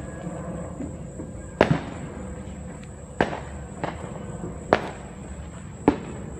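Fireworks exploding: a series of sharp bangs about every second and a half, with one fainter bang among them.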